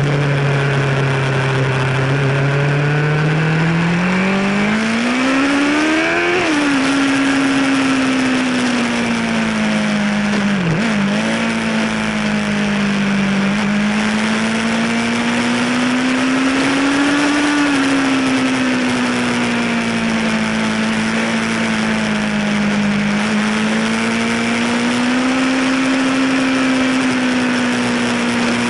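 A Yamaha sportbike's inline-four engine heard from onboard, under a steady rush of wind. Its pitch climbs hard for about six seconds as the bike accelerates, then drops back. It dips briefly around eleven seconds in, then holds a moderate note that rises and falls gently with the throttle.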